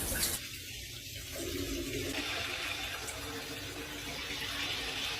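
Shower water running steadily, with a brief dip in level about half a second in.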